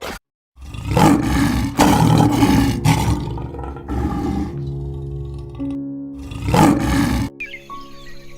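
A large animal roaring loudly in a series of deep, rough calls, with a pause and one more roar near the end. Background music with held notes plays under it.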